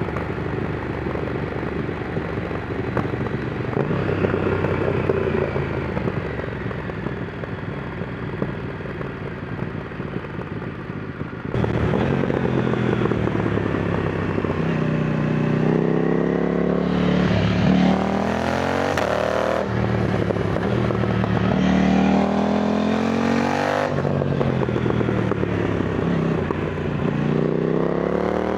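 KTM Duke 990's parallel-twin engine under way, heard from the rider's position. About a third of the way in it jumps abruptly louder, then pulls hard through the gears: the pitch climbs, drops back at each shift, and climbs again several times.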